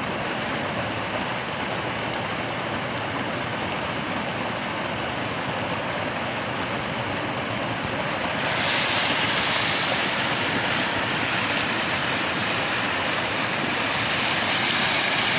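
Fresh mountain stream water rushing steadily, growing louder and brighter about eight seconds in.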